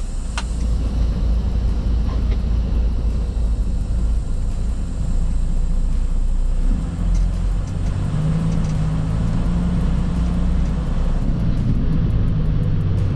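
Diesel semi-truck engine running with a steady low rumble; from about seven seconds in, a steadier engine hum comes through.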